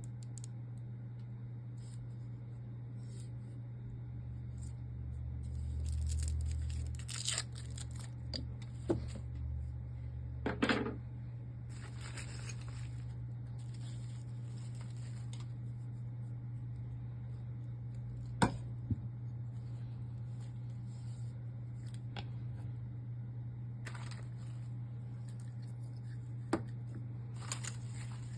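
Unboxing handling: packaging rustling and tearing in stretches, with a few sharp knocks of parts being set down, over a steady low hum.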